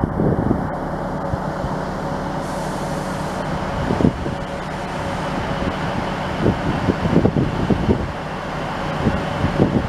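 Train engine running steadily with a constant low drone, while irregular gusts of wind thud against the microphone, more often in the second half.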